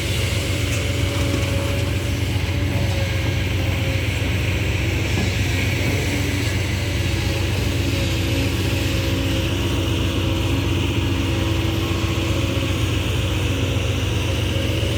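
Ten-wheel dump truck's diesel engine idling while parked, a steady, loud low rumble through its large exhaust pipe.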